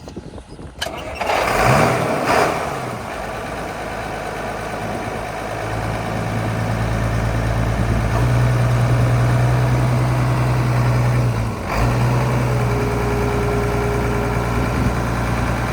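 Case IH Magnum tractor's diesel engine cranking and starting about a second and a half in, then running at a steady idle on a newly fitted replacement belt, with a brief dip in the note about three-quarters of the way through.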